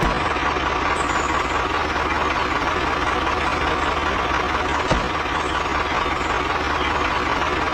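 Tractor engine running steadily at a low, even speed, with a single short knock about five seconds in.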